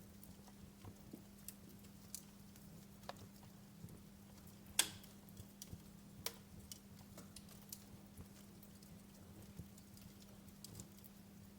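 Wood fire crackling, with scattered irregular pops and snaps, the sharpest about five seconds in, over a faint steady low hum.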